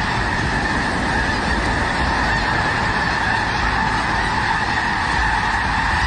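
A huge flock of snow geese calling all at once, a dense, unbroken chorus of honking, with a low rumble underneath.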